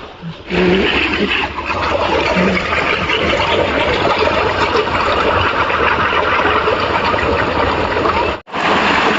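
Waterfall: a loud, steady rush of falling water, broken by a brief gap near the end.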